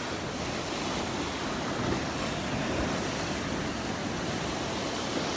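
Small Gulf of Mexico waves breaking and washing around the shallows, a steady rush of surf.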